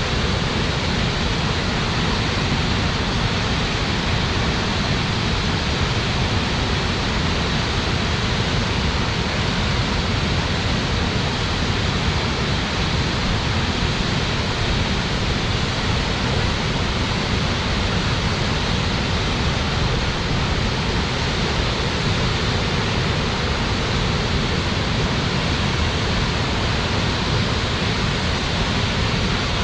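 Waterfall plunging, a steady full rushing roar of falling water with no breaks.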